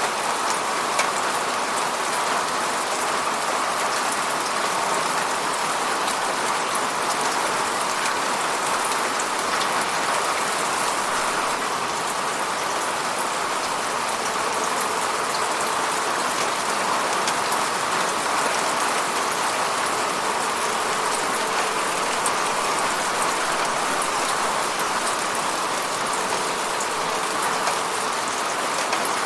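Steady rainfall, an even hiss of rain with many fine drop ticks, unchanging in strength.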